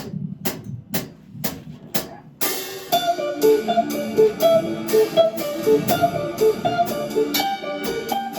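Band intro: five sharp clicks about half a second apart, like a count-in, then from about two and a half seconds in guitar and drums start playing a repeating riff.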